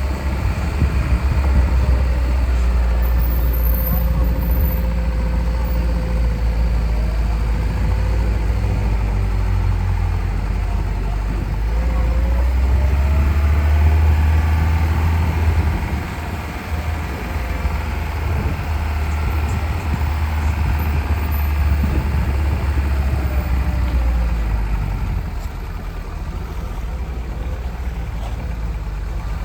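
Lada Niva's four-cylinder engine running as the car drives a rough off-road track, a steady low rumble whose pitch rises and falls as the revs change.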